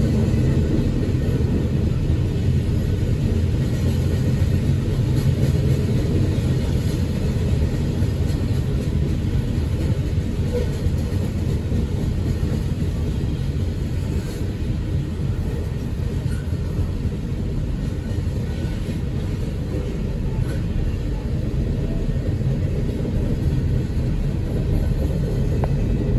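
Loaded coal hopper cars of a freight train rolling past: a steady low rumble of steel wheels on rail.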